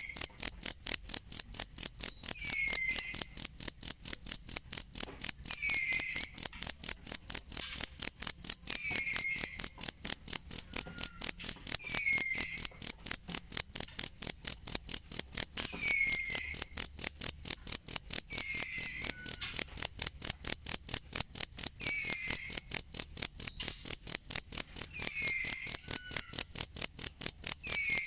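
A cricket chirping loudly and steadily, a high, evenly pulsed trill at about three to four chirps a second. A fainter, lower chirp sounds about every three seconds behind it.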